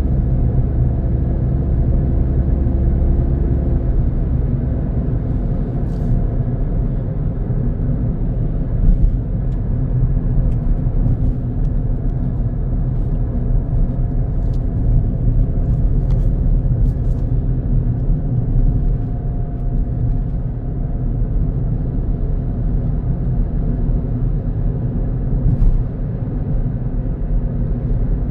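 A car driving along a road: a steady low engine and road rumble, with a few faint ticks and knocks.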